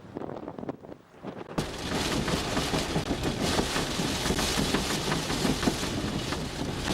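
Squall rain and wind-blown debris pelting a truck in a storm, a dense, continuous clatter of rapid hits and banging. It starts abruptly about a second and a half in, after quieter wind noise on the microphone.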